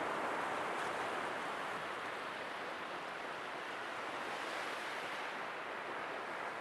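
Sea waves washing in as a steady surf wash, easing slightly toward the end.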